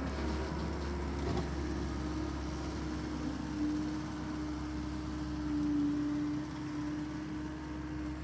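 Tractor engine running steadily as it works a power rake through the ground.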